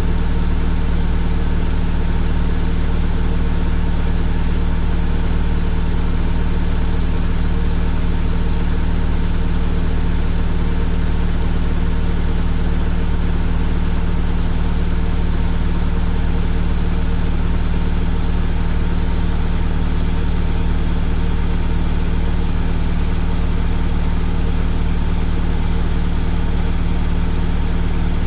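Washing machine running, a steady low hum with an even whooshing noise and faint high-pitched whine tones, unchanging throughout.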